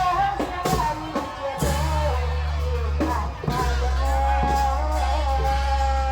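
Isan klong yao long-drum band music: a few drum strokes in the first second and a half, then long held melody notes with vibrato over a steady low drone.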